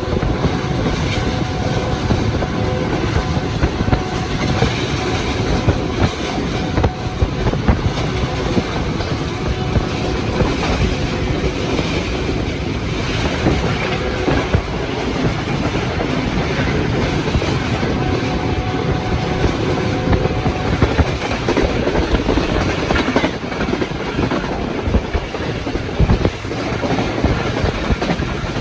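Moving passenger train: the wheels clatter over the rail joints and the carriage rattles, a steady loud run of clicks and knocks over the rumble of the running gear.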